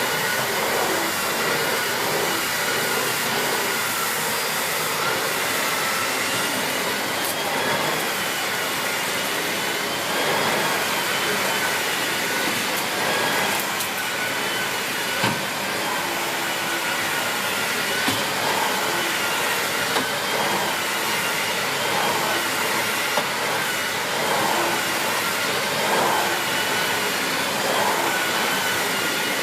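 Miele C2 Compact / S6 Cat and Dog cylinder vacuum cleaner, with its 2000 W motor, running steadily while vacuuming. Its whine wavers slightly in pitch, and there are a few sharp clicks along the way.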